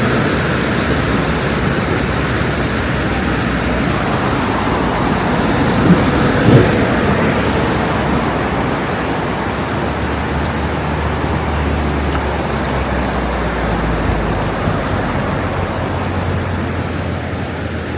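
Rushing water of an Alpine waterfall or glacial river, a loud, even hiss with no let-up. There is a brief louder sound about six seconds in, and a low rumble joins from about ten seconds in.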